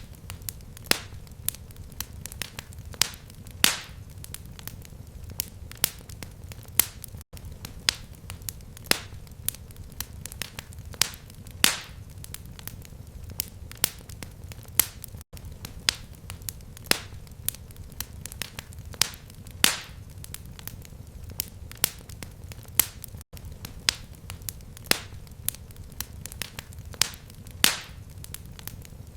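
Fireplace fire crackling: irregular sharp pops and snaps, several a second, over a steady low rumble of flames. A very brief dropout about every eight seconds marks the seam of a looped recording.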